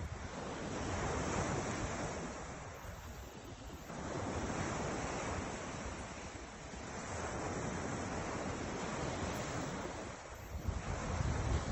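Ocean waves breaking and washing up the shore, three surges each swelling and fading over about three seconds. Wind buffets the microphone near the end.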